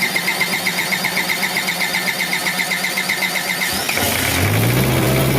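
Starter cranking a Nissan BD30 diesel engine with a rapid pulsing for nearly four seconds. The engine then catches and settles into steady running, the sign that the fuel system has been purged of air after the injection pump work.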